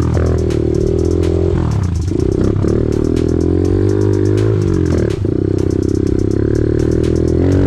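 Small pit bike engine running under load, its revs dipping and climbing several times as it is ridden, with a rapid clatter of clicks over it.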